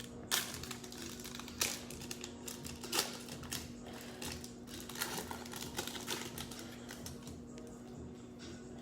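Trading cards being handled and flipped through one at a time: a few sharp clicks and snaps as cards come off the stack, with light rustling between them and a steady low hum underneath.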